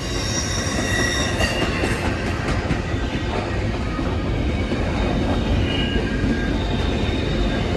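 A train passing close by: a steady rumble of rolling wheels, with the wheels squealing on the rails in several high, steady tones that come and go, strongest in the first couple of seconds.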